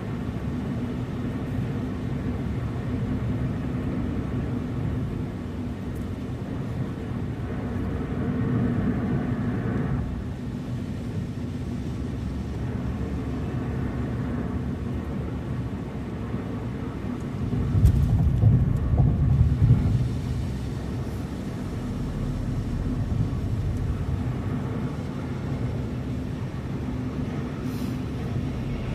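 Car driving: a steady low rumble of road and engine noise, with a louder rumble for about two seconds about two-thirds of the way through.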